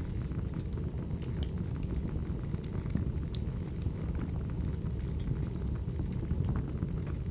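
Wood fire burning: a steady low rumble of flames with scattered, irregular sharp crackles and pops from the logs.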